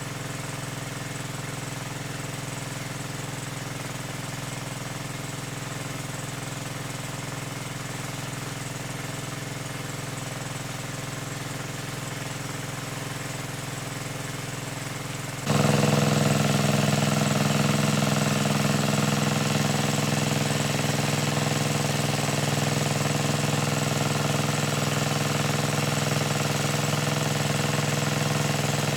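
A small engine running steadily at constant speed. About halfway through it abruptly becomes louder and stays so.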